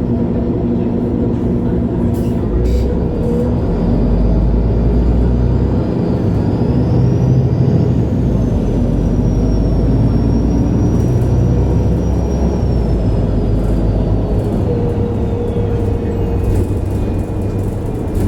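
2011 MAN Lion's City G articulated bus under way: a steady diesel engine drone that grows stronger about three seconds in, with a high whine rising for several seconds and then slowly falling away.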